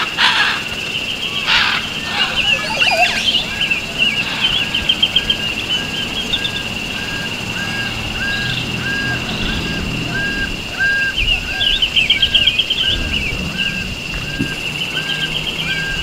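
Birds calling: one bird repeats a short call at an even pace, about three notes every two seconds, over a steady high-pitched tone, while bursts of rapid chattering trills come in a few times.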